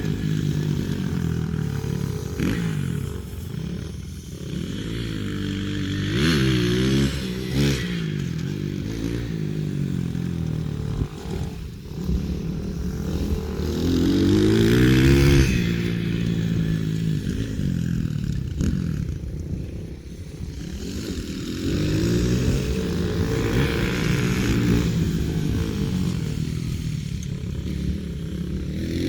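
Pit bike engine revving up and down as it is ridden around a dirt track, the pitch climbing and falling again and again with the throttle.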